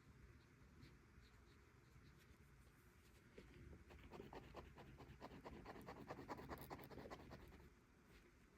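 Faint scratching of a drawing tool on paper: a few seconds of quick, repeated back-and-forth strokes, about six or seven a second, in the middle of the stretch.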